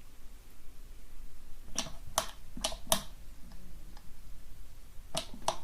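Sharp clicks, four within about a second and two more close together near the end.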